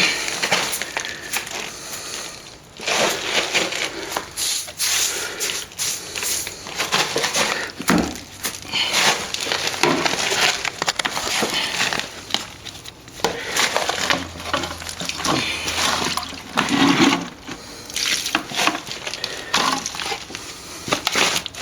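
Water being worked onto a plaster wall to wet it down, heard as a run of irregular wet swishing strokes.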